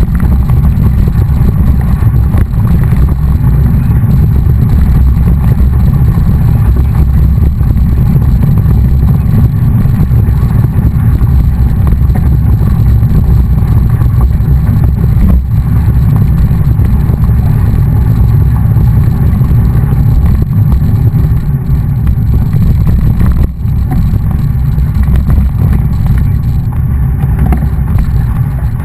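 Loud, steady low rumble of wind buffeting the microphone of a camera on a moving mountain bike, with the road noise of the ride underneath.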